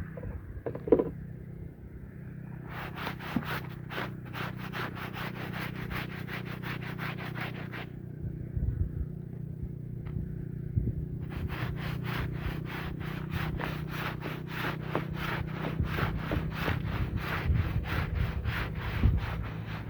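A wet rug being scrubbed with a stiff brush in rapid, repeated strokes. The strokes come in two runs, with a pause of about three seconds in the middle, over a steady low hum.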